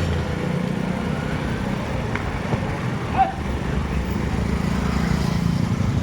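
An engine idling with a steady low, even pulse, and two short clicks about two and three seconds in.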